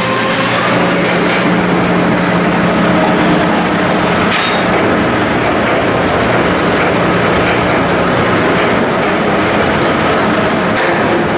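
Loud, steady industrial machinery noise during ship fitting-out work: a constant low hum under a dense hiss, with one brief sharp knock about four seconds in.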